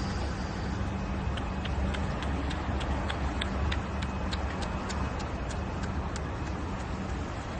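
Steady low rumble and hum with a light, regular ticking, about three or four ticks a second, starting about a second in.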